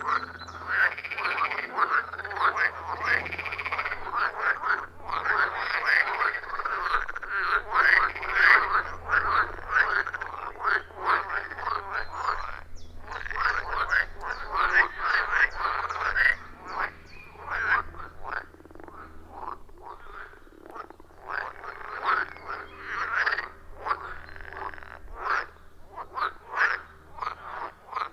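A chorus of many frogs calling at a pond, short croaking calls overlapping densely, the chorus thinning out a little after about halfway.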